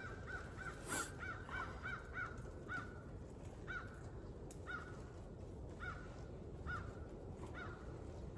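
Crows cawing: a long series of short caws, coming quickly at first and then spaced about a second apart. A single sharp knock sounds about a second in.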